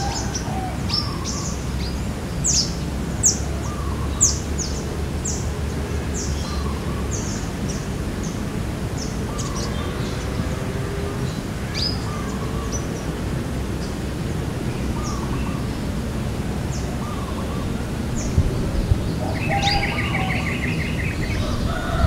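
Small birds chirping in the trees: short, high, down-sliding chirps about once a second over steady low background noise, with a brief buzzy trill near the end.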